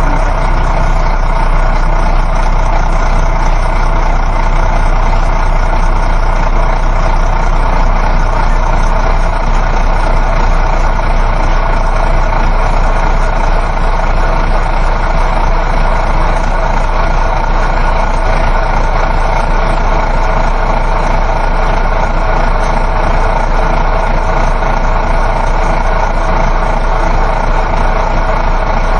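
Inside a moving coach: the steady drone of the bus engine mixed with road and tyre noise, an even, unbroken rumble.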